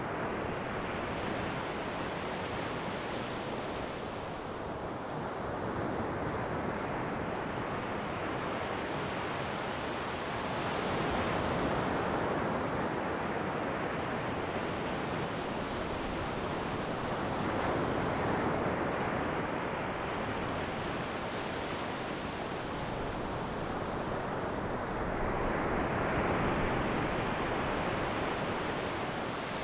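Ocean waves breaking and washing on a shore: a continuous surf hiss that swells into a louder, brighter break about every seven to eight seconds.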